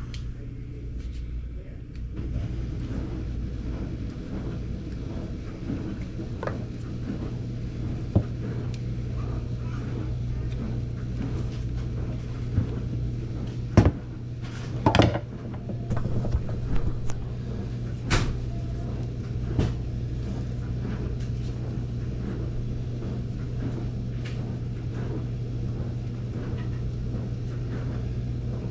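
A steady low mechanical hum and rumble, with a cluster of sharp knocks and clicks about halfway through.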